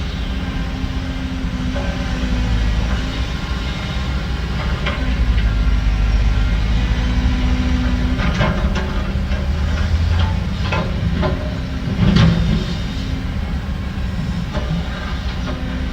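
Heavy construction machinery running with a steady low engine drone, with several sharp metal clanks and knocks over it, the loudest about twelve seconds in.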